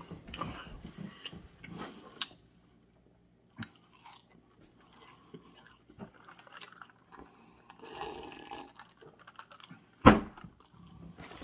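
A person chewing food: irregular small clicks and wet mouth noises, with a short quiet pause a few seconds in. A loud sudden sound comes about ten seconds in.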